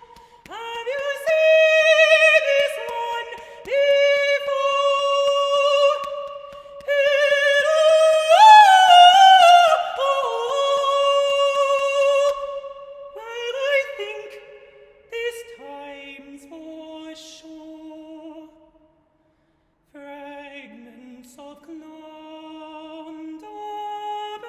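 Unaccompanied solo voice singing long held notes, with a loud sliding rise and fall about eight seconds in. After a brief break near the end, the singing is softer and lower.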